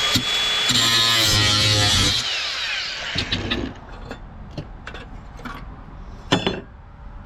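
A power tool running in two bursts on scrap, its motor pitch sagging and falling, then stopping about two seconds in. It is followed by scattered light clicks and knocks of parts being handled.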